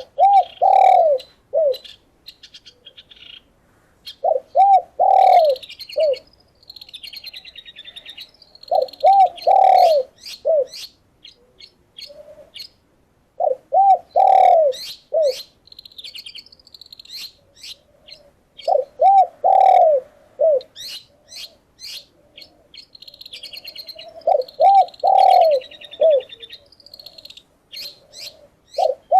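A dove coos a short phrase of a few arching notes, repeated about every five seconds, while small songbirds chirp and trill between the phrases.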